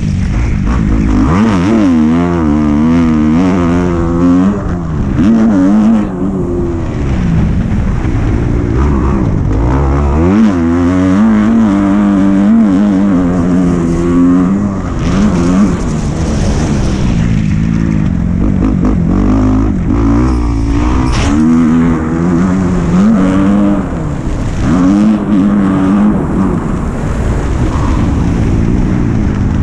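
Dirt bike engine being ridden hard, revving up and dropping back again and again as the rider works the throttle and gears.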